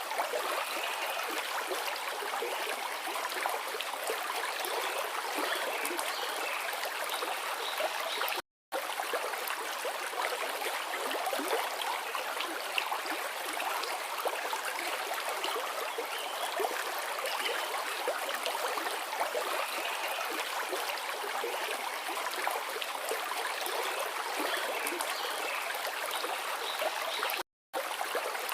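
Forest river flowing: a steady rush of water with no deep rumble, cutting out to silence for a split second twice, about a third of the way in and near the end.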